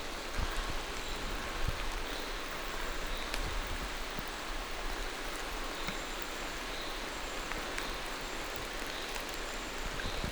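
Steady rain falling through forest trees, a continuous hiss with scattered sharp taps of single drops.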